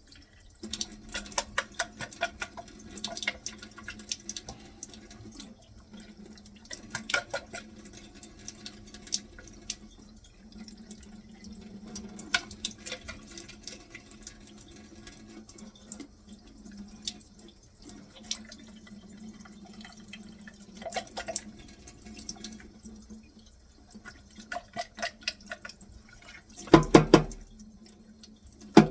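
Tap water running through a dishwasher spray arm and splashing and spattering into a sink as it flushes dirt out of the arm's clogged holes. A louder knock near the end.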